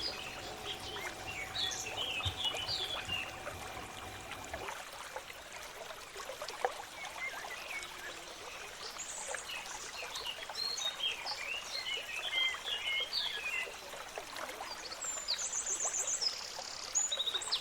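Birds chirping and trilling over a steady hiss. A low hum and a faint steady tone cut off about four and a half seconds in.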